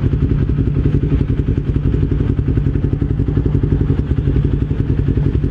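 Motorcycle engine running at a steady pitch, its firing pulses fast and even, with no revving up or down.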